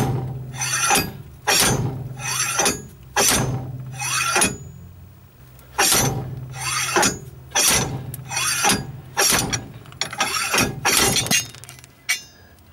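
Slide hammer puller being worked on a front wheel hub: the heavy weight is slid back hard against the handle stop again and again, a loud metallic clang with a short ring at each blow, about one a second with a brief pause partway through, to draw the hub off its bearing.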